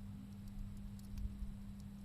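Wood fire crackling faintly, with a few sparse small pops, over a steady low hum.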